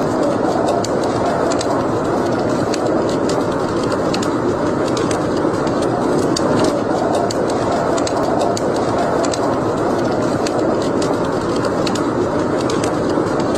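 Wood fire burning in a fireplace: a steady low rushing sound with frequent small, irregular crackles and pops.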